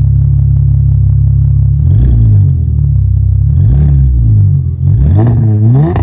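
2010 Cadillac CTS's 3.6 L LLT V6 running through Flowmaster Super 10 mufflers: a steady idle, then revved three times, each rev rising in pitch and falling back, the third one climbing highest.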